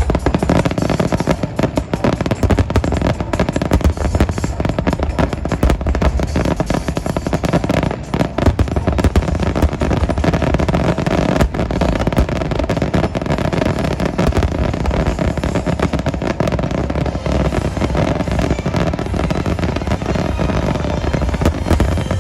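Aerial fireworks shells bursting in a dense, unbroken barrage: rapid booms and crackling with a heavy low rumble underneath.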